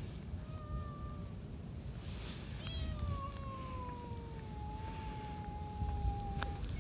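A cat yowling: a short low call, then about a second and a half later a long, drawn-out yowl of about four seconds that slowly falls in pitch. This is the kind of warning yowl cats make when squaring up to another cat.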